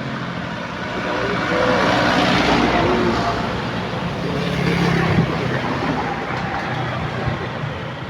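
Motor vehicle engines running with road traffic noise, and voices faintly in the background.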